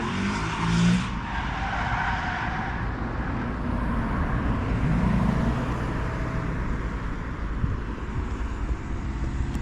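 Off-road motor vehicles running on the motocross track, a steady rush of engine and tyre noise, with an engine note standing out about a second in and again around five seconds.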